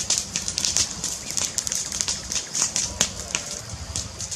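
Fireplace crackling: a dense, irregular run of sharp pops and snaps from burning wood over a low rumble of the flames.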